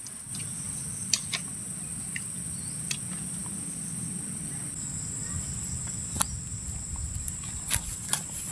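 Steady high-pitched chorus of night insects, shifting slightly in pitch about halfway through, with a few sharp clicks and snaps scattered over it, the strongest near the end.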